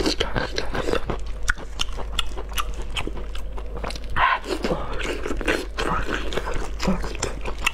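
Close-miked wet chewing and biting of braised meat, with many short smacking clicks from the mouth as a strip is torn with the teeth.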